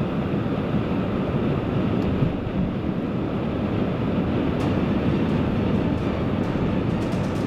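Steady road and engine noise heard from inside a car driving on a snow-covered road, with a few faint clicks near the end.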